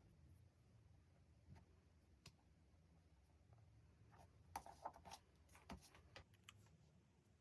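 Faint desk sounds of paper and stationery being handled: scattered light taps and rustles, with a brief cluster of crisper clicks and paper rustles a little past the middle.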